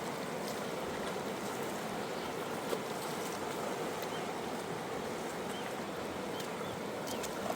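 Steady rush of the Khersan River's flowing water, with a few faint ticks on top.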